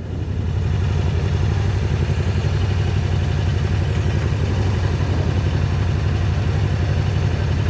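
Can-Am Spyder three-wheeled motorcycle's engine running at a steady cruising speed, with wind rush over it.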